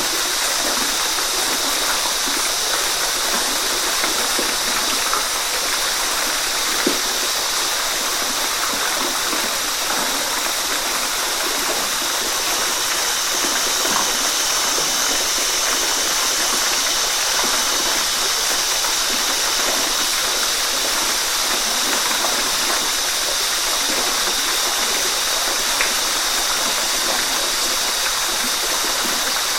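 Waterfall: a steady rush of falling water with no pauses or changes.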